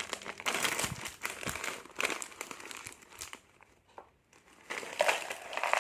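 Plastic snack packets crinkling as they are handled and opened, in crackly bursts with a short lull a little past halfway.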